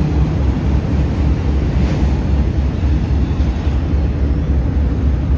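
Freight train giving a steady, loud low rumble.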